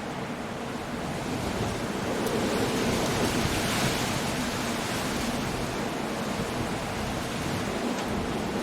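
Storm surf on a rocky coast: a continuous wash of breaking waves with wind. One surge builds about two seconds in, peaks around four seconds, then eases into a steady roar.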